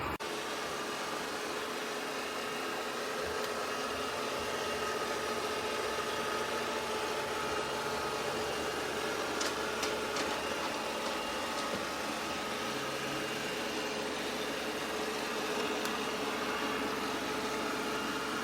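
ECOVACS DEEBOT N20 PRO PLUS robot vacuum running, a steady whir with several constant tones that holds at an even level throughout.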